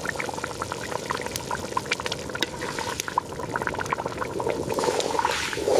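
Water or another liquid: a steady rushing sound with many small pops and crackles, growing a little louder near the end.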